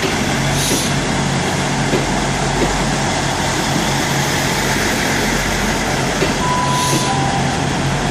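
Class 159 diesel multiple unit's underfloor diesel engines running steadily while it stands at the platform, with a constant low hum. Near the end comes a short two-note beep, the second note lower.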